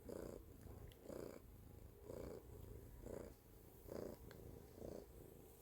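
Domestic cat purring, the purr swelling in a pulse about once a second with each breath in and out.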